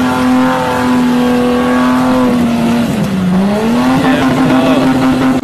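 Engine of a lifted off-road 4x4 held at high revs with a steady, even note, dipping in pitch about three seconds in and revving back up.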